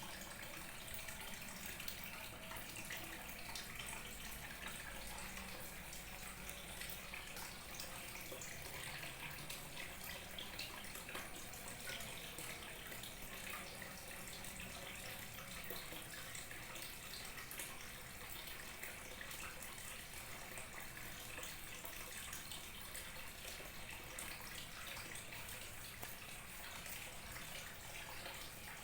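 Small waterfall trickling and splashing steadily, a continuous hiss of falling water with fine splashes and no pauses.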